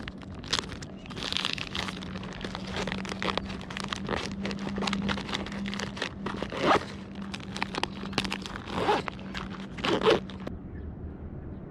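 Plastic packaging and fishing tackle being handled while a new lure is rigged: irregular crinkling and rustling with small clicks and a few louder crackles, over a faint steady low hum. The crinkling stops near the end.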